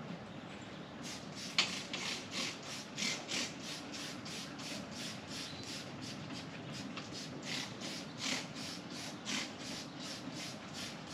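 Trigger spray bottle of wheel cleaner being pumped over and over, a quick run of short hissing squirts about two to three a second, as the cleaner is sprayed onto the bare aluminium motorcycle wheel.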